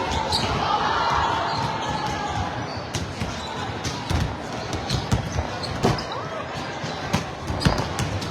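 Volleyballs being hit and bouncing on a gym floor, sharp thuds scattered irregularly through, over a background of voices.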